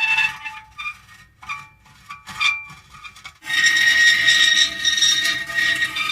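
Metal creaking: a few short, scattered squeaks in a quieter stretch, then a loud, drawn-out high-pitched creak from about three and a half seconds in.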